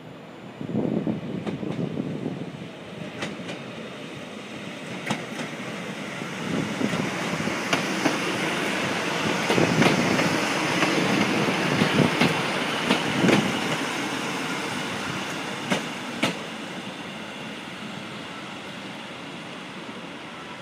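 A passenger train running past along the platform. Its rumble starts about a second in, builds to a peak midway and then fades away as it moves off. Sharp clacks of the wheels over rail joints come at irregular intervals.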